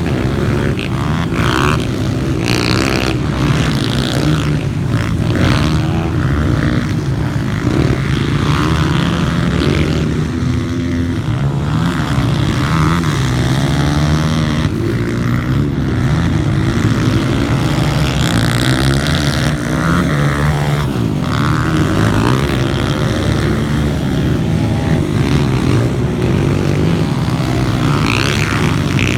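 Pit bike engine running hard while racing, its pitch rising and falling again and again as the throttle comes on and off.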